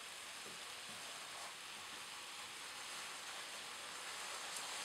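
Thick onion and spice paste sizzling softly and steadily in a frying pan while a lump of jaggery melts into it.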